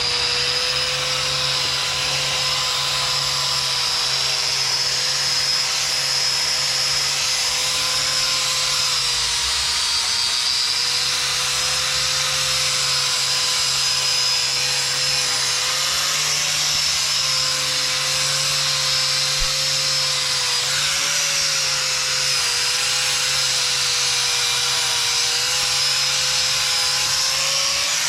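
A high-speed power tool runs continuously, with a strong hiss and a steady whine whose pitch wavers slightly.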